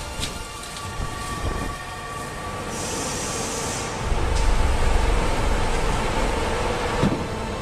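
Industrial machinery running with a steady mechanical hum and a few knocks; a short hiss comes about three seconds in, and a deeper rumble grows louder about four seconds in.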